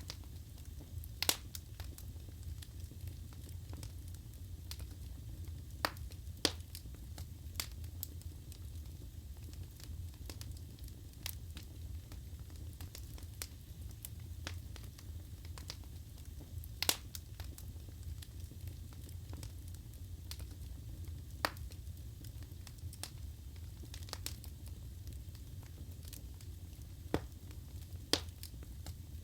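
Wood fire burning in a fireplace: a steady low rumble of the flames with scattered sharp crackles and pops from the burning logs, a few louder pops standing out.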